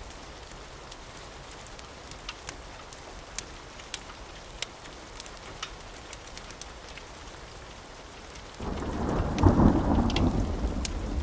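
Steady rain falling, with scattered sharp clicks. About eight and a half seconds in, a loud thunderclap breaks in suddenly and keeps rumbling.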